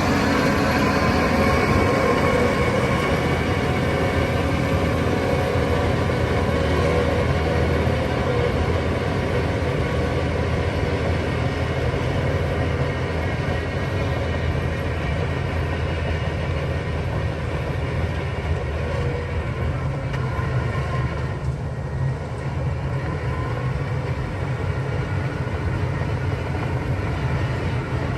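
Shantui DH17 crawler bulldozer's diesel engine running steadily as the machine works, a continuous low rumble with mechanical noise over it, easing slightly about two-thirds of the way through.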